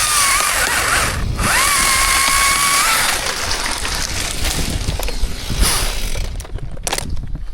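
Chainsaw running at high revs with a steady whine, easing off briefly just after a second in. It dies away about six seconds in, leaving a few clicks.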